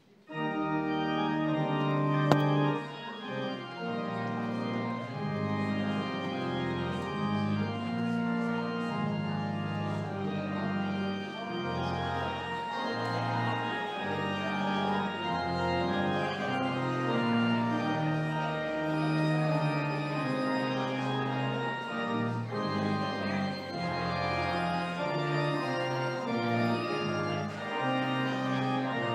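Organ playing a postlude at the close of a church service: slow sustained chords over held low bass notes, starting about half a second in.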